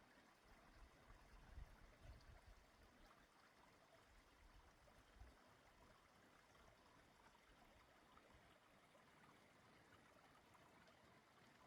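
Faint, steady rush of a mountain valley stream flowing over rocks. A few brief low rumbles sound in the first half.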